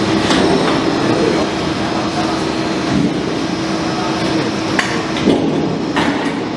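Sheet-metal roll-forming machine running with a steady mechanical hum, with a few sharp metallic clanks, three of them standing out.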